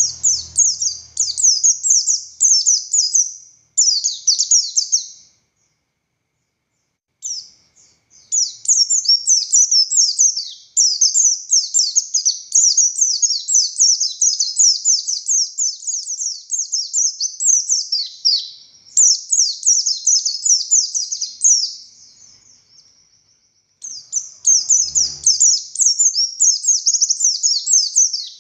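A pleci buxtoni white-eye singing a fast, high-pitched song of rapidly repeated downward-sweeping notes in long unbroken phrases, pausing about five seconds in and again briefly near twenty-two seconds. This is the excited, hard-driving 'ngalas' fighter song of a white-eye in full voice.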